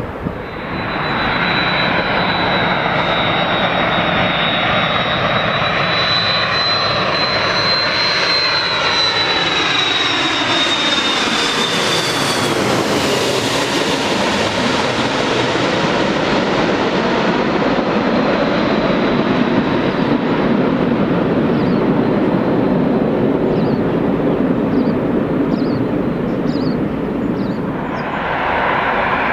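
Jet airliner passing low overhead on landing approach. A high engine whine drops slightly in pitch as it goes by, and the loud engine noise then carries on as the jet moves away.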